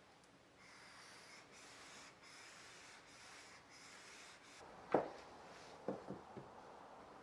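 Repeated scraping strokes of a Japanese plane blade rubbed on a wet whetstone, followed by one sharp knock and three lighter knocks about a second later.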